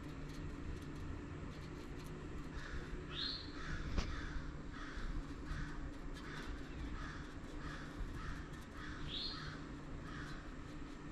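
Birds calling outside: a run of short calls, about two or three a second, with two higher rising-and-falling calls, over a steady low hum.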